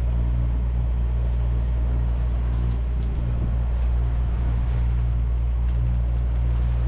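Sailboat's inboard diesel engine running steadily under way while motor-sailing: an even low drone with a steady hiss over it.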